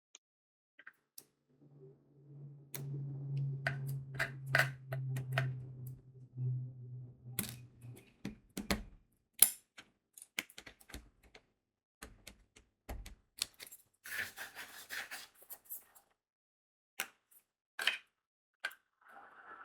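Diamond painting work: crystal beads clicking and tapping as they are pressed onto the adhesive canvas with the applicator pen, an irregular run of small sharp clicks. A low steady hum runs under the first few seconds, and a short rattle comes about two-thirds of the way through.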